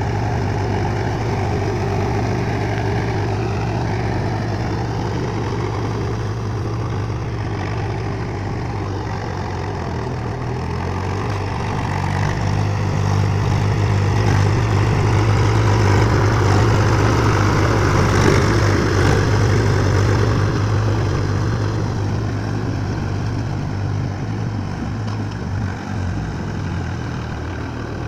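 Swaraj tractor's diesel engine running steadily while ploughing. It grows louder about halfway through, then eases off again.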